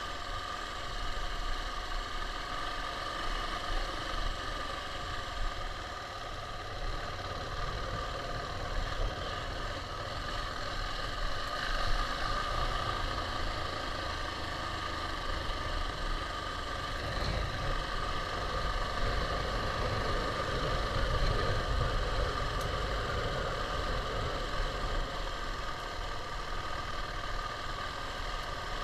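KTM 690's single-cylinder engine running at a fairly steady pitch.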